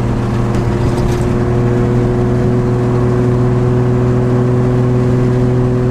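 Turbocharged RB25 inline-six engine of a Nissan 240SX (S14) cruising at a steady engine speed, a constant drone heard from inside the cabin over road noise.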